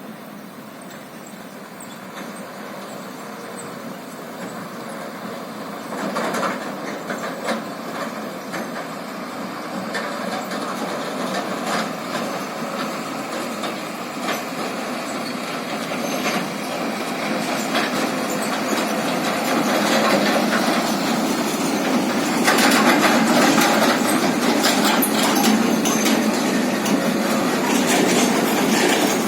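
A heavy truck drawing nearer, its running and rattling growing steadily louder, with scattered knocks and clatters through the second half.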